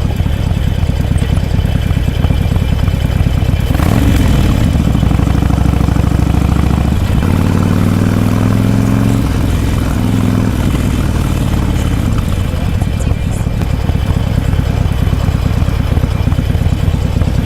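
Harley-Davidson Forty-Eight's air-cooled V-twin running through a Vance & Hines Shortshots full exhaust. It idles with a loping beat and is revved about four seconds in, again around seven to nine seconds, and once more briefly near ten seconds, before settling back to idle.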